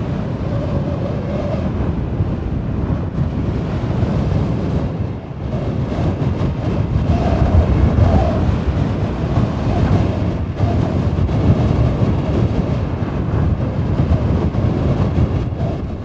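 Wind buffeting the microphone: a loud, uneven rushing rumble, heaviest in the low range.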